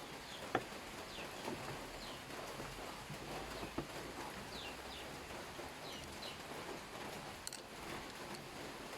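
Short, falling bird chirps repeating over a steady background hiss, with two sharp clicks, one about half a second in and one nearly four seconds in.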